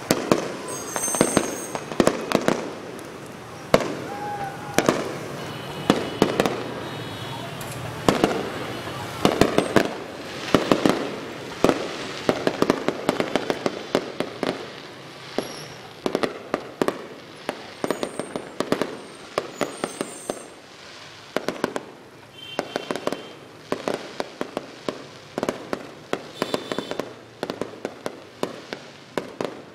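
A fireworks display: shells bursting in rapid, uneven volleys of sharp bangs and crackles that go on without pause.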